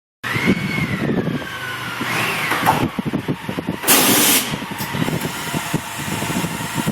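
Motorcycle engine running with a rapid uneven beat. A short, loud hiss cuts in about four seconds in.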